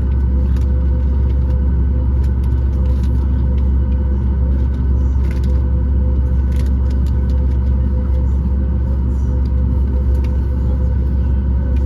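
Cabin noise inside a Boeing 737 MAX 8 airliner, heard from a window seat just behind the wing: a steady low rumble with a constant hum, and scattered light clicks and rattles.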